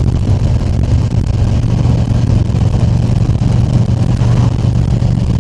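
Harley-Davidson Tri Glide Ultra's V-twin engine running steadily at cruising speed, with wind and road noise over it.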